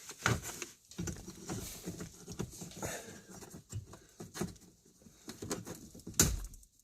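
Irregular clicks, taps and rustling of hands working plastic dash trim and tools, with a sharper knock about six seconds in.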